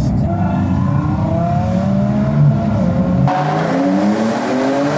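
Porsche 911 Turbo S twin-turbo flat-six accelerating in sports mode, its engine note rising steadily with the revs. About three seconds in the sound changes abruptly: the deep rumble drops away and a hiss comes in while the engine note keeps climbing.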